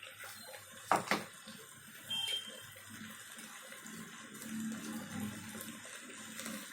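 Rice and masala cooking in an open pressure cooker, a faint steady sizzle, with a couple of sharp clicks about a second in.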